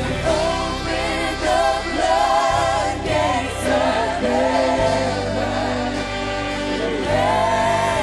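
Gospel choir singing long held notes with vibrato over steady instrumental accompaniment.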